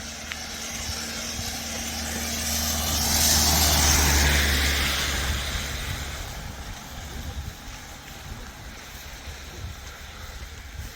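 A motor vehicle passing by: engine hum and tyre hiss build to a peak about three and a half seconds in, the engine note dropping in pitch as it goes past, then fade away.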